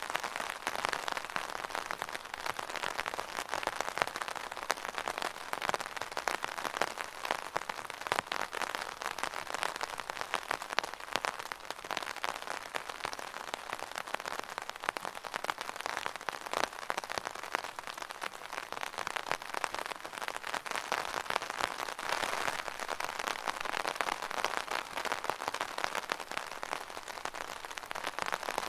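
Steady rain drumming on an umbrella, a dense patter of many small drops with the odd sharper, louder tap.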